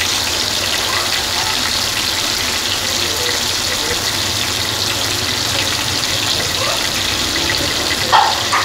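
Chapli kababs sizzling steadily in hot oil on a tawa over a slow flame, with a brief louder sound near the end.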